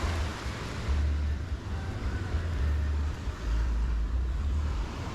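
Wind buffeting the microphone in uneven low rumbles, over a steady hiss of surf on the beach.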